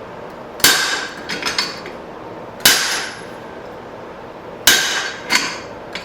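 Three heavy hammer blows on a blacksmith's guillotine fuller tool, about two seconds apart. Each blow brings a brief metallic ring and a lighter follow-up tap or two. This is the fullering stage, grooving the hot steel to isolate material for a hammer face.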